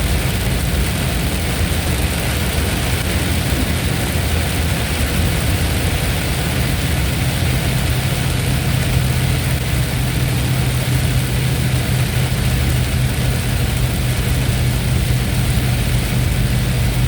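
Thunderstorm ambience: a steady, even hiss over a continuous low rumble, with a low steady hum joining about six seconds in.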